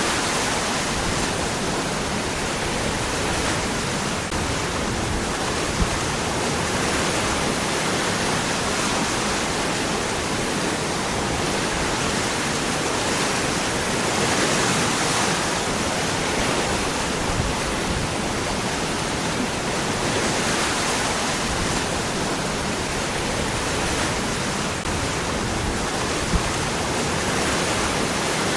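Waterfall: water falling and rushing over rocks as a steady, even rush, with a couple of faint splashing ticks.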